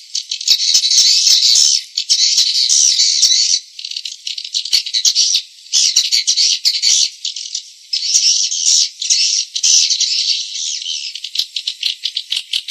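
Swiftlet calls: rapid, dense chattering twitters in bursts of one to two seconds with short breaks, the kind of call recording played in swiftlet houses to draw the birds in.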